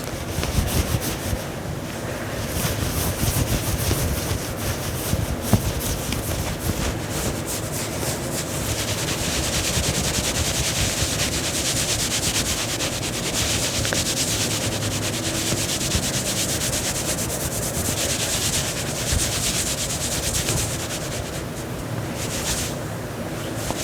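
Fingernails scratching and rubbing turtleneck fabric close to the microphone, a continuous fast scratchy rustle that grows busier and brighter in the middle.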